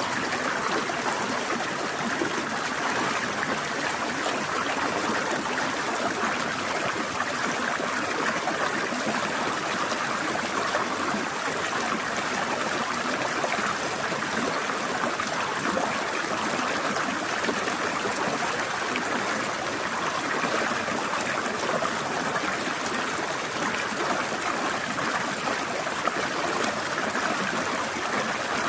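Small forest stream flowing over rocks: a steady trickling and babbling rush of water, unchanging throughout.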